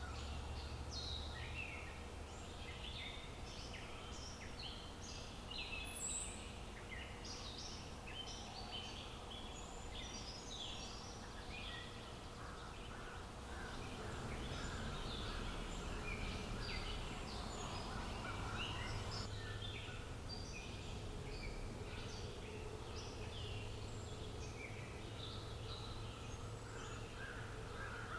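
Outdoor bird chorus: many birds chirping and calling in short, overlapping notes throughout, over a low, steady background of outdoor ambience.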